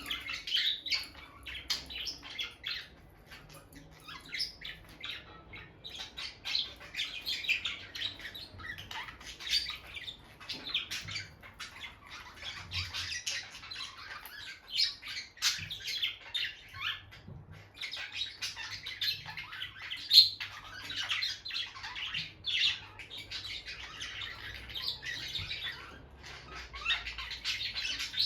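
Peach-faced lovebirds chirping and squawking in a constant stream of short, high calls, with one louder call about twenty seconds in.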